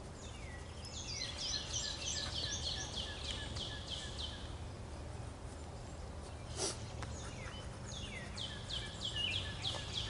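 A songbird singing two long, rapid songs of high notes that each sweep downward, over a low steady hum. There is one sharp click about six and a half seconds in.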